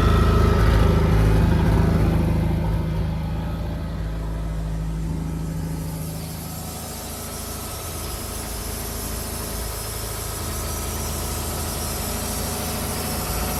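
Mercruiser 3.0L four-cylinder petrol inboard engine running; it gets quieter a few seconds in and settles to a steady idle.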